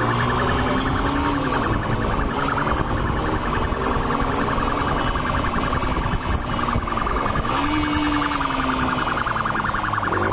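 Police siren sounding continuously over vehicle engine noise, with a lower tone that rises and falls twice.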